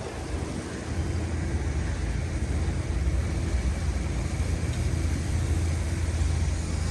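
A motor vehicle's engine running steadily close by in city street traffic, a low rumble that grows louder about a second in.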